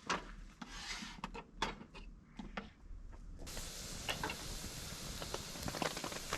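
Wood being handled, with separate knocks and scrapes of wood on wood. About three and a half seconds in, the sound changes abruptly to a steady hiss with scattered crackles.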